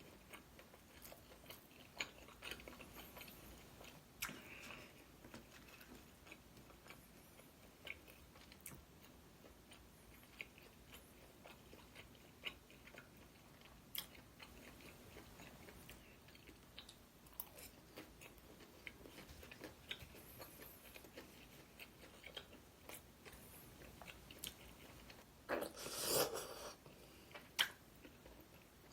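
Close-up eating sounds of Korean snack food (tteokbokki and fried twigim): quiet chewing and biting with scattered small clicks and crunches, and a louder crunchy burst near the end.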